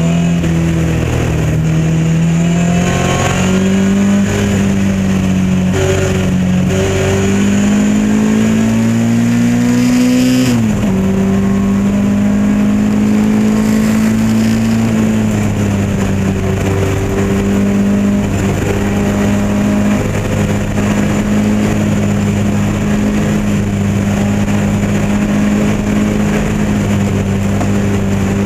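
Lotus Elan Modsports race car's four-cylinder engine at racing speed: the revs rise and fall through several gear changes in the first ten seconds, climb to a sharp upshift about ten seconds in, then hold high and nearly steady, flat out.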